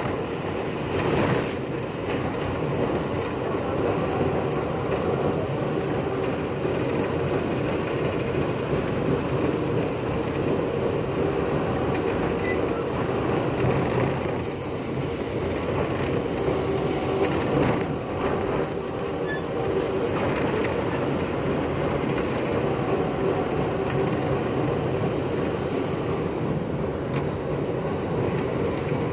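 Steady running noise of a PNR diesel commuter train heard from inside the passenger car, with a constant low hum and a few faint clicks from the wheels and carriage.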